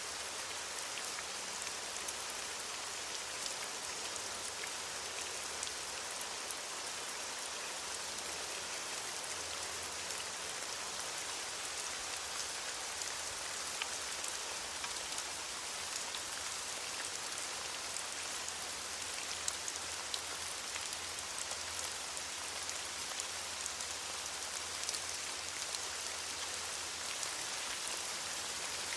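Steady rain falling on leaves, an even hiss of countless drops with fine patters throughout.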